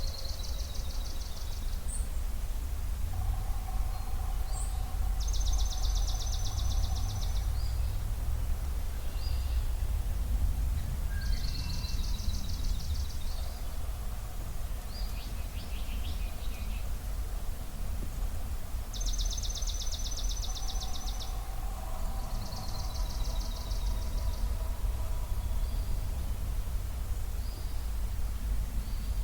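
Spring dawn birdsong at a marsh: a songbird repeats a rapid, even trill about two seconds long every few seconds, with fainter chirps and calls from other birds between. A steady low rumble runs underneath.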